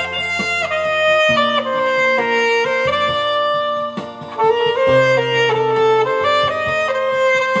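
Alto saxophone playing a slow melody in long held notes over a backing accompaniment with a bass line, with a short break about four seconds in.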